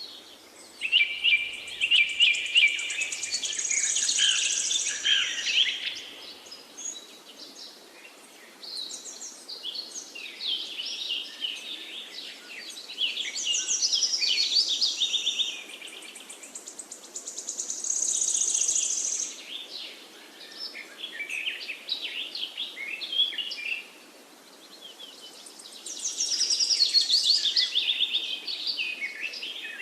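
Songbirds chirping and singing in bursts of quick, high trills, several phrases one after another with short gaps between them, over a steady background hiss.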